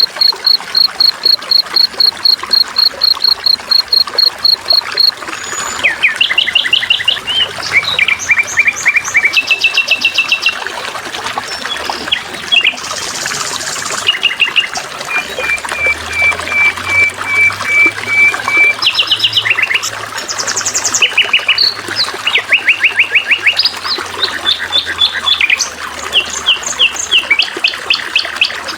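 Songbirds chirping and trilling over a soft trickle of water. It opens with an even run of high chirps, about six a second, for some five seconds, then changes to varied fast trills and rattling chirp runs.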